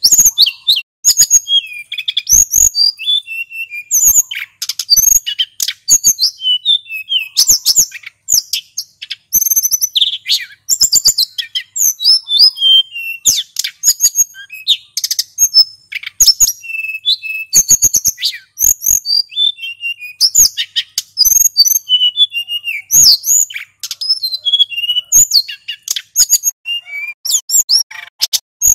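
Male sulingan gunung singing without a break: fast runs of high chirps, trills and whistled glides, the rolling song that keepers call 'ngeroll'.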